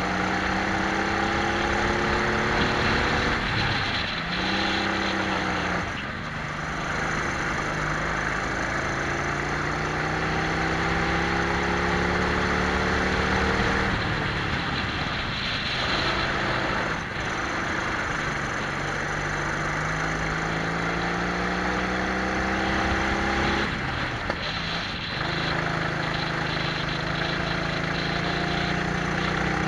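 Twin-engine Prokart's engines heard from onboard, their pitch climbing steadily along the straights and dropping sharply three times as the driver lifts for corners, over steady wind and tyre noise.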